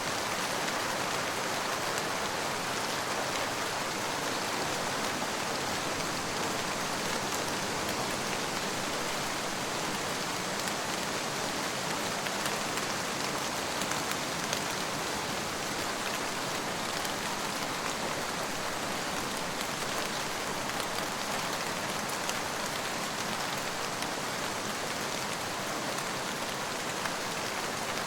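Steady rain falling on a surface, a dense even patter of drops with no thunder.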